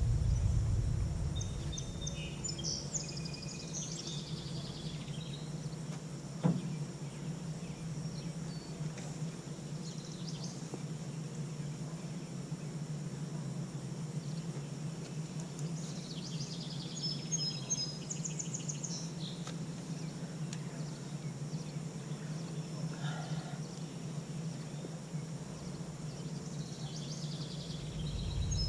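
Outdoor ambience: small birds chirping in several short bouts over a steady low hum, with a single sharp knock about six seconds in.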